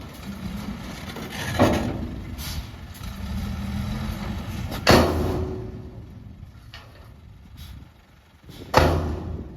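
Diesel engines of earthmoving machinery running, with three sudden loud bangs, the loudest about halfway through.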